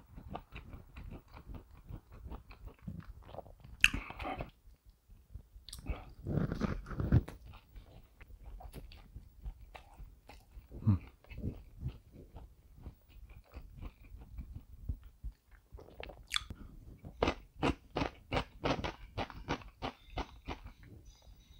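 A person chewing and biting a slice of cheese-fry cream cheese pizza close to a clip-on microphone. Wet mouth clicks run throughout, with a few louder bites, and settle into a steady rhythm of about three chews a second near the end.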